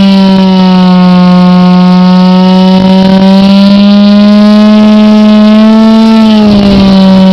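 The .46-size glow engine of a radio-controlled Extra 300S model airplane, running at a steady high-pitched buzz. Its pitch dips slightly near the end.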